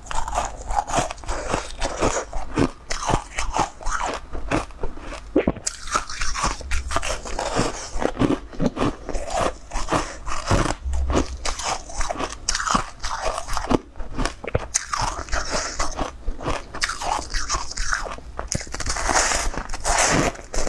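Biting and chewing a crunchy blue peach-shaped bun close to the microphone: a dense, continuous run of crunches and crackles.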